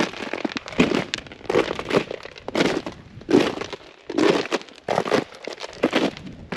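Footsteps crunching through an ice-crusted surface at a steady walking pace, about one step every 0.8 seconds, the ice crust cracking under each step.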